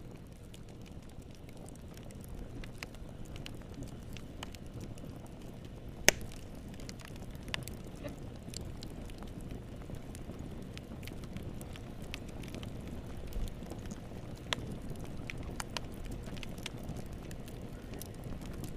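Fire crackling in a fireplace: a steady low rumble of flame with scattered sharp pops and snaps, one loud pop about six seconds in.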